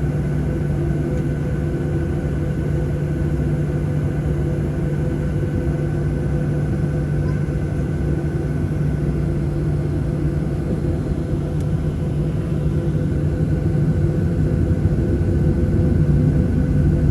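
Boeing 737-700's CFM56-7B jet engines running steadily, heard as a constant cabin rumble with a steady hum; it grows slightly louder near the end.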